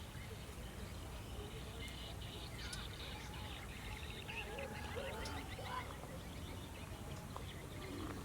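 Several birds chirping and calling, including a quick trill about three to four seconds in, over a steady low background rumble.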